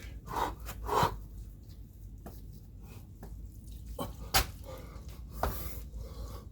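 Hard exhaled breaths from a man exercising, then two sharp thuds of hands and feet hitting the floor during burpees, about four and five and a half seconds in.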